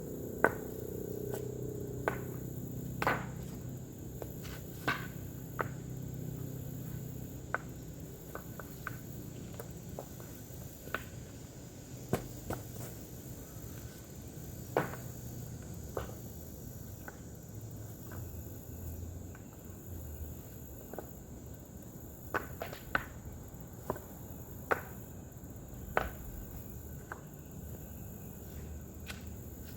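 Irregular sharp knocks and clacks, a second or two apart, from hand work on a dry creek bed: digging and setting stones. They sound over a faint steady high-pitched hum.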